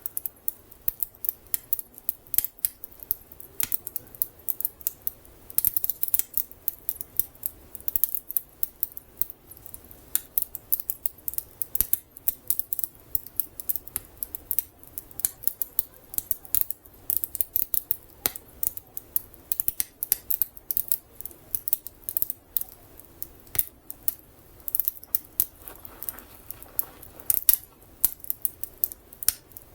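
Wood fire crackling, with a dense run of irregular sharp snaps and pops of burning wood.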